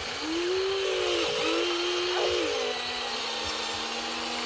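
Small electric gear motors of a radio-controlled construction model whining. The pitch climbs as a motor spins up, dips sharply once in the middle, and then settles lower after a couple of shifts as the load changes.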